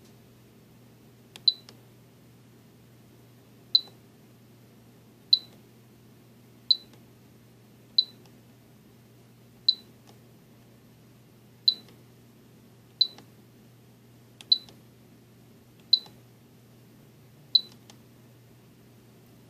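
Spektrum DX7 radio transmitter beeping as its setup menu is stepped through: eleven short high beeps, each with a click, at uneven gaps of one to two seconds, over a faint steady hum.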